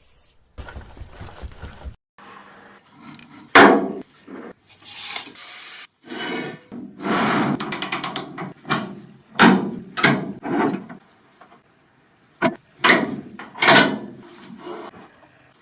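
Hand tools at work: rubbing and scraping strokes, a quick run of ratchet-like clicks near the middle, and a series of sharp knocks and taps.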